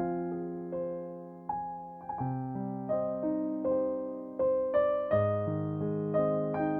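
Background piano music: a slow melody of struck notes and chords, each note ringing and fading.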